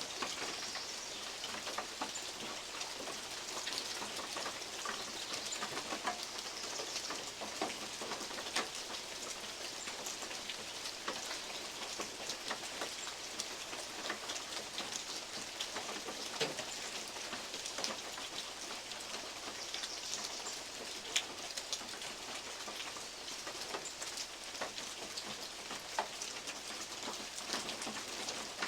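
Steady rain with big drops falling from oak leaves onto a metal roof, each landing as a sharp tap over the continuous patter.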